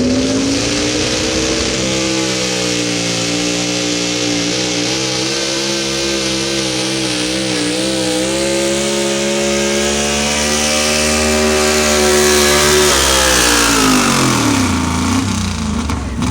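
Super Stock 4x4 pulling truck's engine at full throttle during a pull. The revs climb in the first couple of seconds, hold high with a slight waver midway, then fall away near the end as the throttle comes off.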